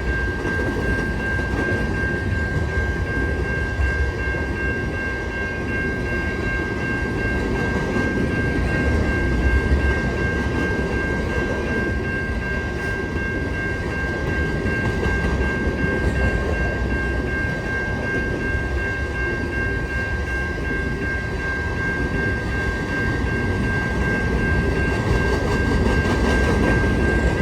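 Empty grain hopper cars of a long freight train rolling past, a steady rumble of wheels on rail with a steady high-pitched ringing tone over it.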